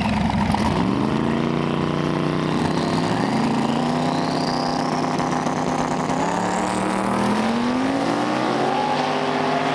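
Turbocharged race car engine running under power, its pitch climbing slowly, with a high whine rising over the middle of the stretch.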